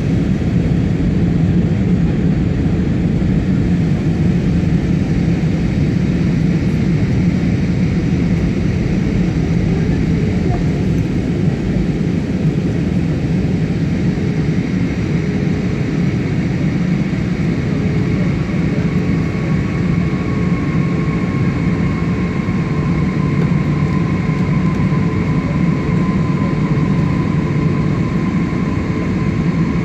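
Steady cabin noise of an Airbus A320 airliner in descent: jet engines and airflow with a deep, even rush. A thin whine fades in a little past halfway and holds.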